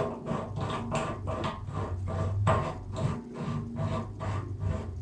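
A metal shower-hose nut being hand-threaded onto a plastic connector: quick rhythmic rubbing and clicking of the threads, about four strokes a second, over a faint low hum.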